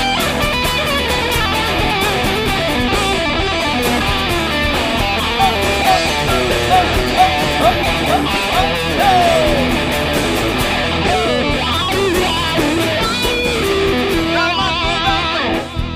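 Rock band playing an instrumental break: an electric guitar lead with bent, sliding notes over bass, rhythm guitar and drums.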